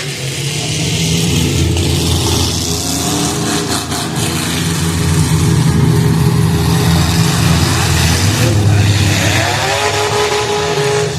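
Several demolition derby cars' engines running hard and revving together, with a few sharp knocks of impact about four seconds in and engines revving up near the end.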